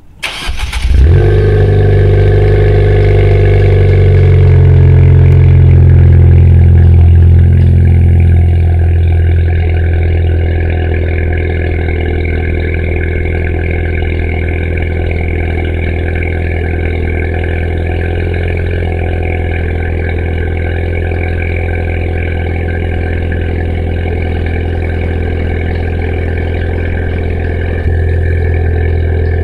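Ford Fiesta ST's 1.6-litre EcoBoost turbocharged four-cylinder, breathing through a 3-inch MBRP T409 stainless catback exhaust, cold-started: it cranks and catches about a second in, then runs at a loud raised cold-start idle. About eight to ten seconds in the idle drops and settles into a quieter, steady exhaust drone.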